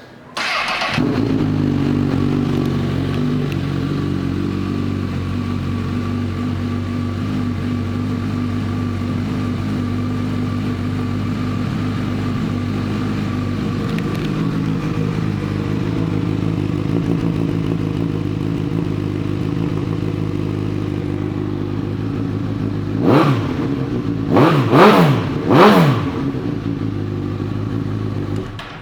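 A 2014 Honda CB1000R's inline-four engine, fitted with a Yoshimura exhaust, starts about half a second in and idles steadily. Near the end it is revved once, then three more times in quick succession.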